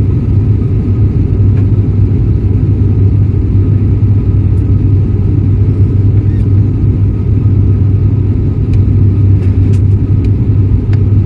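Steady, loud cabin drone of an ATR turboprop airliner in flight: a constant low propeller hum over engine and air rumble, with a few faint clicks near the end.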